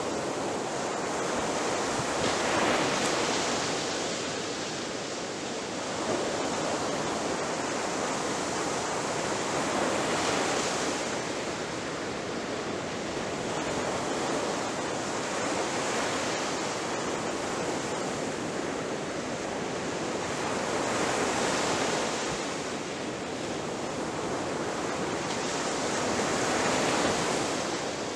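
Ocean waves breaking: a continuous rush of surf that swells and eases about every five to six seconds as each wave crashes and washes out.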